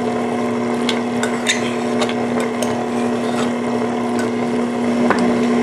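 Electric kitchen mixer running with a steady hum while it mixes the mashed apple into the oat-and-pumpkin biscuit dough, with scattered light clicks and knocks.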